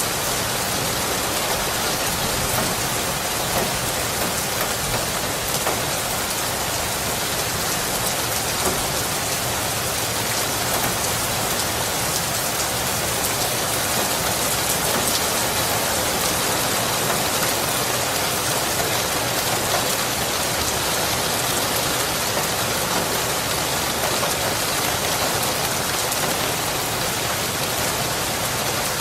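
Steady rain: an even hiss of many drops hitting a surface, with no break or swell.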